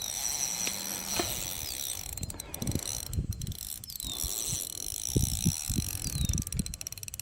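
Fishing reel ratcheting in runs of rapid clicks while a big carp is played on the line, with some low knocks of handling.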